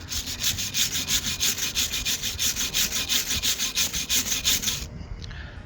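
Rapid back-and-forth hand scrubbing, about six strokes a second, stopping about five seconds in.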